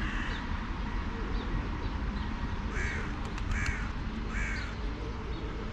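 A crow cawing three times in quick succession, short harsh caws a little over half a second apart, over a steady low rumble.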